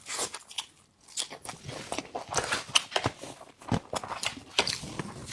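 Close-miked eating sounds: a person biting into and chewing food, a rapid irregular string of mouth clicks and smacks.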